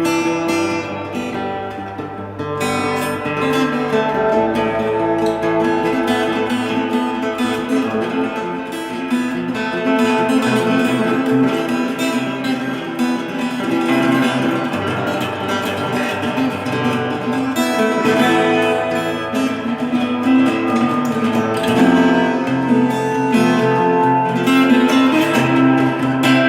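Acoustic guitar music, strummed and plucked chords with a melody, playing on without a break and growing fuller about two and a half seconds in.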